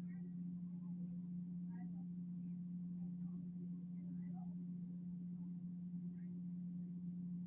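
Steady low electrical hum throughout, with a few faint, brief high chirps or distant voice sounds over it.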